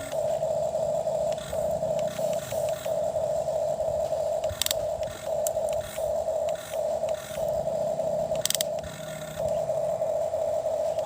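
Toy excavator's small electric motor and gears whining in short on-and-off runs as it digs, with a low scraping rumble and two sharp clicks, about four seconds in and near the end.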